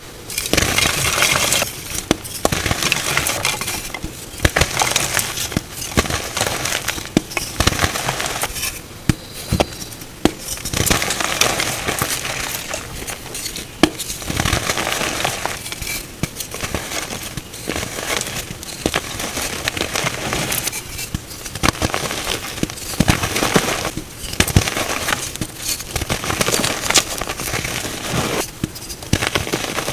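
Blocks of gym chalk being crushed and crumbled by hand, in repeated crunchy, crackling squeezes with many sharp snaps, each lasting a second or two with short pauses between.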